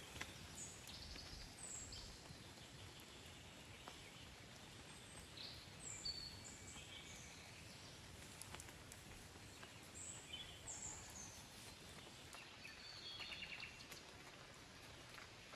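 Small birds calling: short high chirps and quick falling notes, scattered and repeated, over a faint steady background hiss. A few sharp clicks come at the very start.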